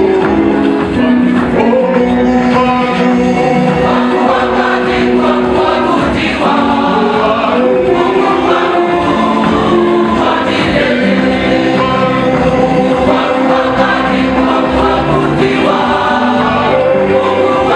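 Choir singing a gospel song, many voices together, loud and continuous.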